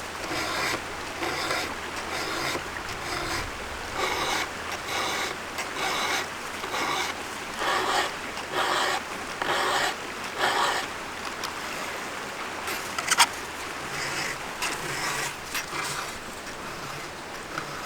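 Hand file rasping across the cutter teeth of a chainsaw chain, one stroke about every second; the teeth are burred from hitting steel. A single sharp click comes about two-thirds of the way through, and the strokes thin out near the end.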